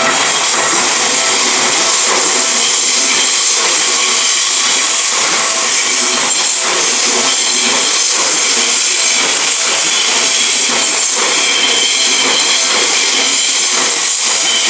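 Seibu Ikebukuro Line train running through a level crossing: a loud, steady rush of wheels on rails. The crossing's warning bell rings faintly beneath it.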